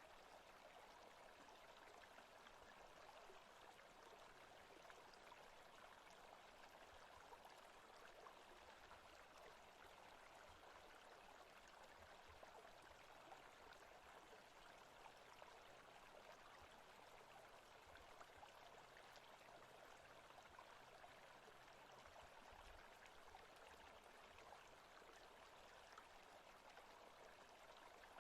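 Faint forest ambience recording: an even, steady rushing with no distinct events.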